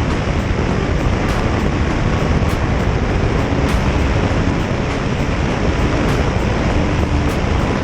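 Steady rush of wind noise on the microphone of a moving motorcycle, with the engine running faintly beneath it.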